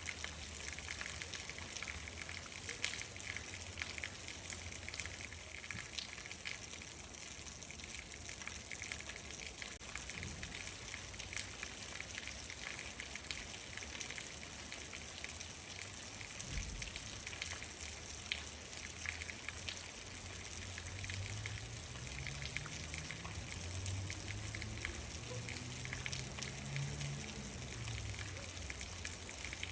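Steady rain falling, with many individual drops ticking close by. In the second half a low drone joins it, rising and then falling in pitch over several seconds.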